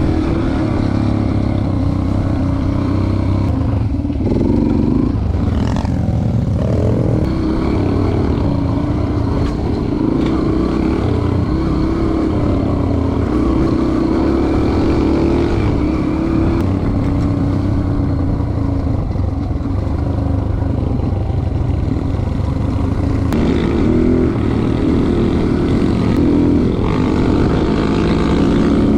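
Dirt bike engine running under way on a trail ride, its pitch rising and falling with the throttle.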